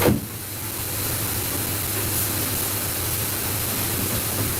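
Steady background hiss with a low, even hum underneath, after one brief sharp sound at the very start.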